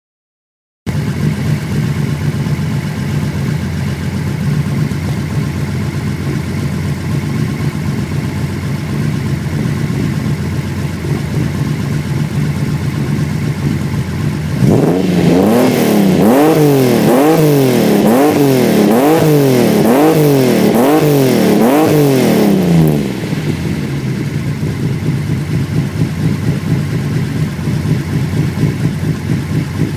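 Datsun 240Z's L28 inline-six, bored out to 3 litres and fed by Solex carburettors, idling through a half-stainless vertical dual exhaust, which is quite loud. About halfway in the throttle is blipped about nine times in quick succession, roughly once a second, before the engine settles back to idle.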